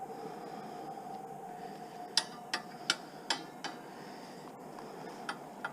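A magnet clicking against steel parts: five sharp metallic clicks in quick succession starting about two seconds in, over a steady faint hum. The magnet sticking shows the metal is steel, not aluminium.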